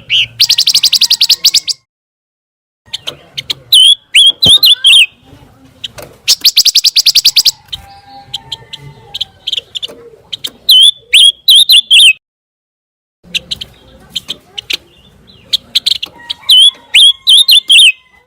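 Recorded song of the pancawarna songbird: phrases of rapid buzzy trills alternating with sharp, high whistled notes, repeated in bursts with brief silences after about two seconds and again after about twelve.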